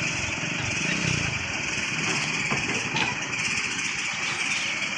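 A vehicle engine running steadily, with a fast low pulsing and a constant high hiss over it.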